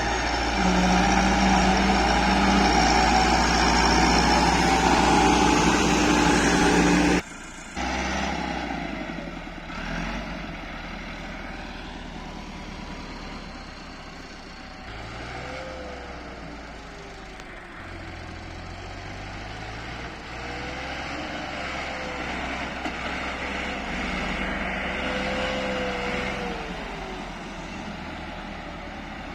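Massey Ferguson tractor diesel engines running while pulling trolleys: a loud, steady engine note that breaks off suddenly about seven seconds in, then a quieter engine whose pitch rises and falls several times.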